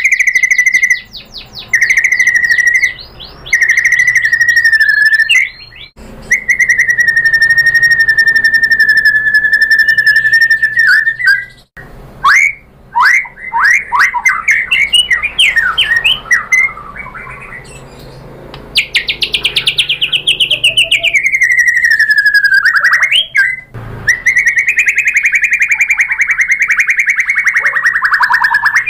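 White-rumped shama singing loudly: long, clear whistled notes held for several seconds, broken by bursts of rapid chattering notes and quick slides. A long note falls in pitch about two thirds of the way through.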